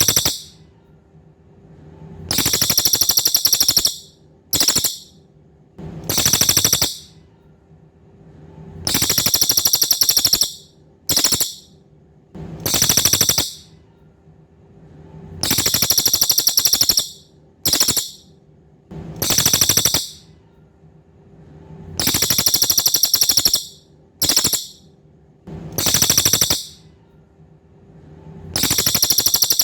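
Cililin bird calling: a loud, high-pitched rapid trill in bursts of about one to two seconds, each long burst followed by a short one, repeating over and over as a looped training recording.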